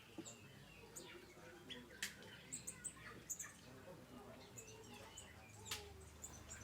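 Small aviary birds chirping and twittering in short, faint, high calls, with a couple of sharp clicks, one about two seconds in and one near the end.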